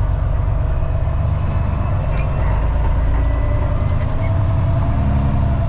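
Freightliner FLD dump truck's diesel engine pulling away loaded with riprap, a steady heavy rumble heard from inside the cab.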